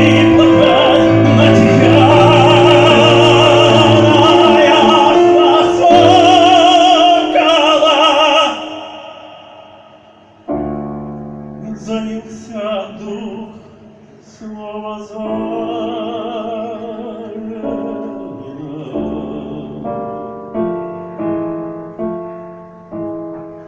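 A male singer holds the song's last notes with a wide vibrato over piano accompaniment, and the voice ends about eight or nine seconds in. The piano then plays the closing bars alone in short phrases that each die away.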